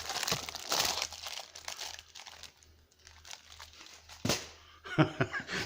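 Packaging being handled and crinkled during an unboxing, loudest in the first second and a half, with a sharp knock about four seconds in.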